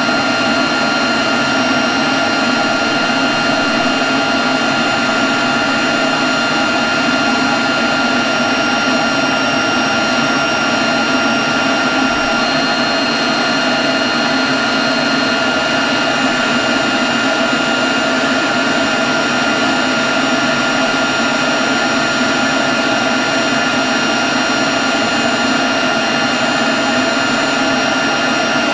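Leaf blower running steadily at a constant speed: a loud rush of air with a thin, steady high whine over it.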